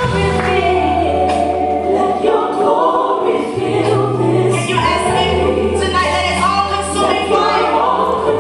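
Recorded gospel praise music: a choir singing over long held bass notes.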